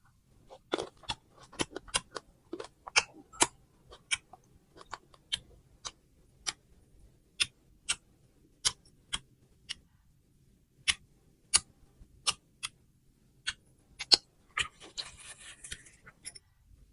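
Close-miked chewing of crunchy fruit: a string of sharp, irregular crunches and clicks about once or twice a second, with a denser stretch of crunching and rustle about two seconds before the end.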